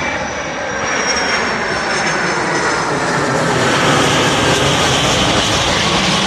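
Boeing 757 jet airliner passing low overhead on its landing approach: a loud, steady jet-engine roar with a high whine that falls slowly in pitch, building a little towards the middle.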